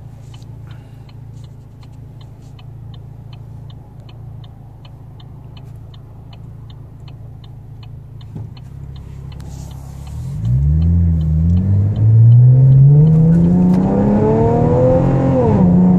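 2013 Chevrolet Camaro V6 with an aftermarket exhaust idling at a stop, then accelerating hard from about ten seconds in. The exhaust note gets much louder and climbs in pitch, dips briefly once, climbs again and falls away near the end as the throttle lifts.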